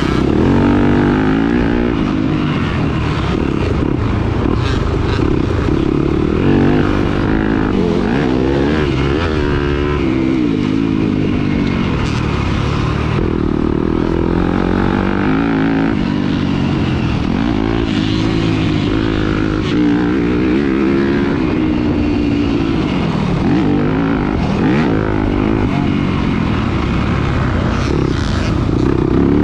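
Dirt bike engine racing over rough ground, its pitch climbing and dropping over and over as the throttle is opened and shut and the gears change.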